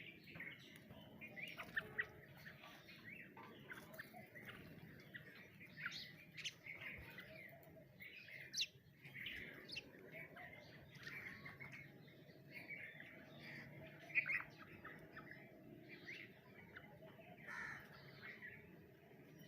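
Birds chirping and calling, with many short, varied notes one after another and a louder call about 14 seconds in.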